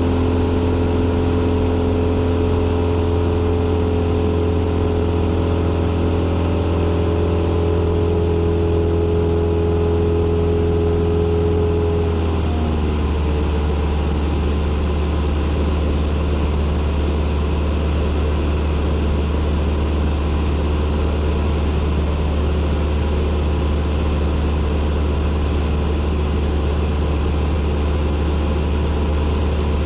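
Cessna 172N's four-cylinder Lycoming engine and propeller droning steadily in flight. About twelve seconds in, the engine speed drops a little and the drone settles at a slightly lower pitch.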